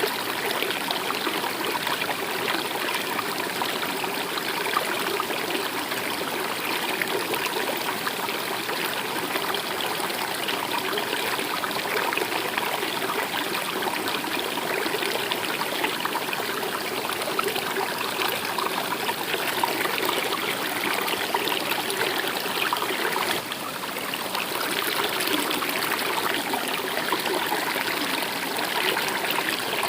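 A stream running steadily with continuous flowing and trickling water, and a slight brief drop in level about three-quarters of the way through.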